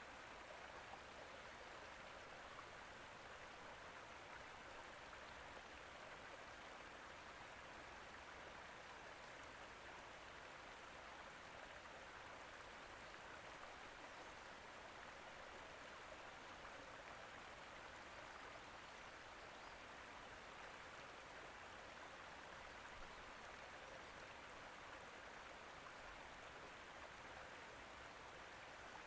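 Faint, steady hiss of water, even throughout without distinct drops or splashes.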